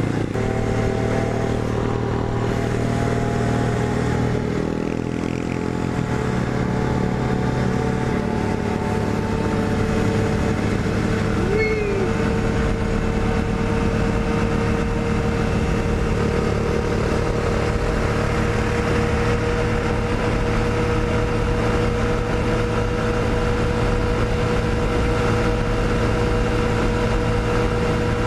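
Honda Grom's small single-cylinder engine running hard and steadily at freeway speed, under a rush of wind noise. The engine note shifts during the first few seconds, then holds one steady high note.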